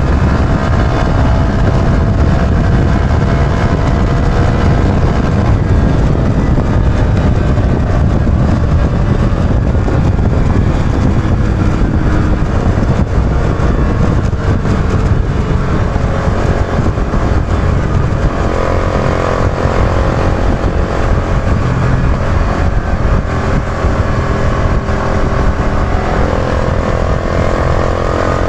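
Yamaha YB125Z DX's 125 cc single-cylinder four-stroke engine running under way, heard with heavy wind rush on the microphone. The engine pitch climbs slowly, drops about two-thirds in, then climbs again as the bike accelerates.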